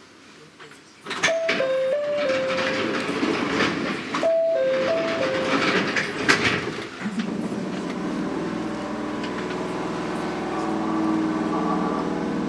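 A short four-note electronic chime sounds twice, about three seconds apart, over a rush of noise in a Chichibu Railway 7500 series electric train standing at a station. From about seven seconds in, a steady low hum of the train's equipment takes over. The chime starts again at the very end.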